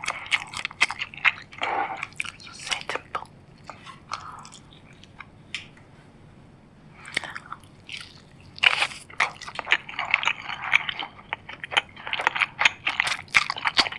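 Close-miked eating sounds: crunchy food being bitten and chewed in dense, crackling crunches. There is a quieter pause in the middle before heavy crunching resumes.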